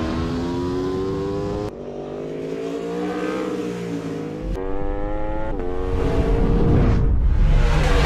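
Motorcycle engines revving in several short clips cut together, the engine pitch climbing and easing off, with abrupt changes between clips.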